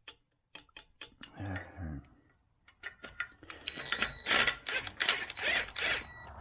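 A few separate sharp clicks, then from about three and a half seconds in a loud run of rapid clacking and rattling, as tools and engine-bay parts are handled.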